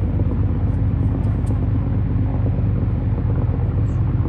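Steady low drone of a river motor ship's diesel engine running.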